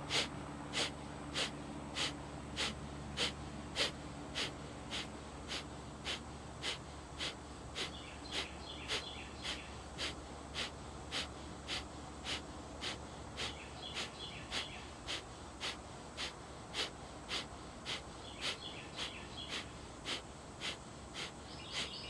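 Rapid, forceful exhales of yogic pumping breathwork, each a short sharp puff of air with the belly pushed in, repeating evenly a little under two times a second.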